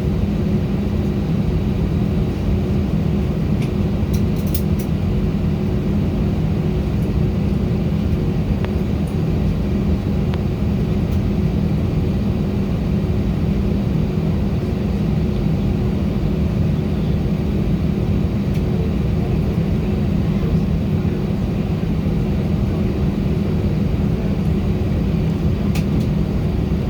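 Steady engine and airflow drone of an Airbus A319 heard inside the passenger cabin, with a constant low hum and a few faint clicks.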